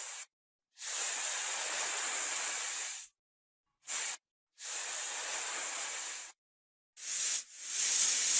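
Snake hissing in a series of separate hisses with short silences between: a long hiss of about two seconds, a brief sharp one, another long one, then a short hiss running straight into a louder one near the end.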